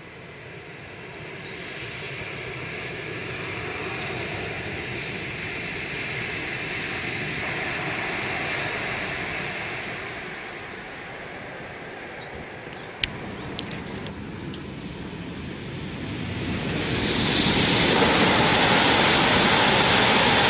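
Hokuriku Shinkansen high-speed train passing at speed: a rushing roar swells, then eases off. A few sharp clicks follow, then a second, louder rushing roar builds and holds near the end.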